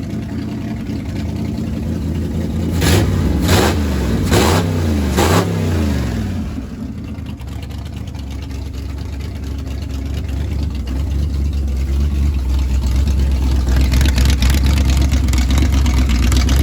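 Carbureted small-block Chevy V8 running through its new exhaust, blipped four times in quick succession a few seconds in, then running steadily with a low rumble that grows louder toward the end.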